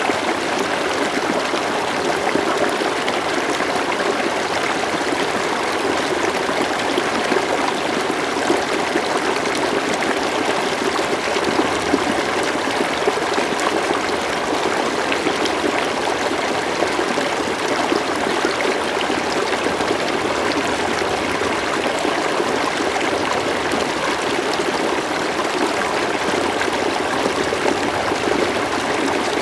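River water flowing steadily, an even rushing burble with small splashes and trickles.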